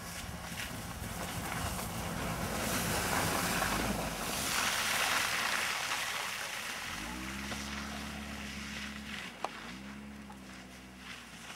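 A car engine revving as an SUV slides and spins its wheels in snow, under a loud rush of wind on the microphone. About seven seconds in, the engine climbs to a steady high-revving note. It drops out briefly and then holds again.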